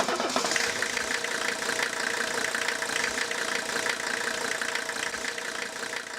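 A vehicle engine running steadily at idle, starting abruptly and beginning to fade near the end.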